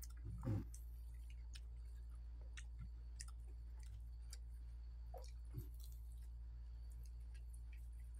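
Close-up eating sounds: chewing and small wet mouth clicks from people eating by hand, over a steady low hum. A brief louder noise comes about half a second in, and a smaller one near the middle.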